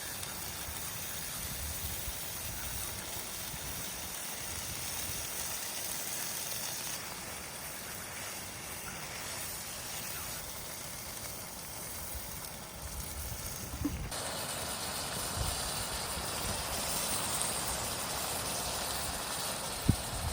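Steady hiss of food frying in a pan on a camping stove, with garlic, oil and tomato puree cooking. The hiss grows fuller about fourteen seconds in, with a few light knocks and one sharp knock near the end.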